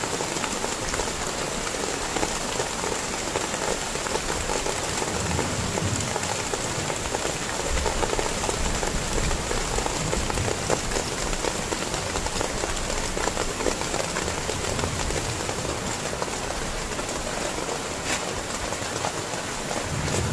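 Heavy rain falling steadily, a dense hiss of drops striking a surface close by, with a few brief low rumbles now and then.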